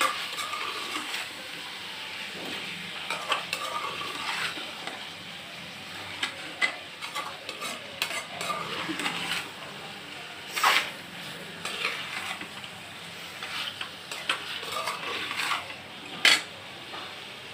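Meat, tomatoes and spices sizzling in oil in a metal kadai while being stirred and turned with a metal spoon, which scrapes and clinks against the pan at irregular intervals, with two louder knocks, one just before halfway and one near the end. This is the bhuna stage, the masala and meat being fried down together.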